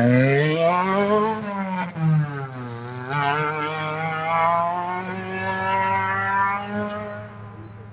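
Ford Ka rally car's engine revving hard as it pulls away from the start, the pitch climbing, dropping at a gear change and climbing again. It then levels off and fades as the car drives off down the road.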